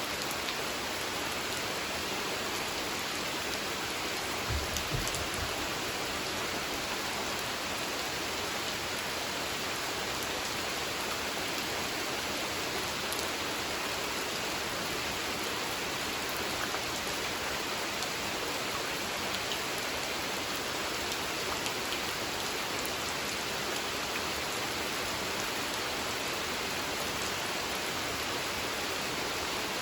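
Steady rain falling on a pond, a dense even patter of drops on the water, with a couple of brief low thuds about five seconds in.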